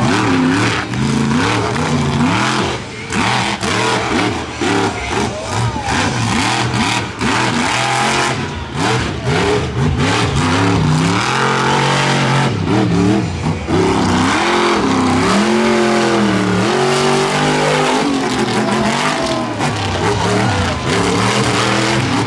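Monster truck's supercharged V8 revving hard and dropping back again and again, its pitch sweeping up and down as the truck is driven through a freestyle run.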